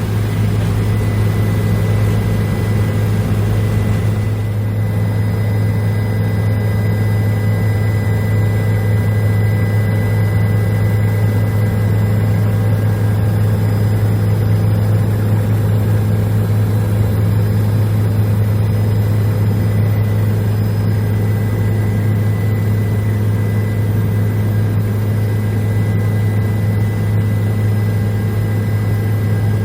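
Helicopter in flight: a steady, loud drone of rotor and turbine engine, with a faint high whine held steady throughout.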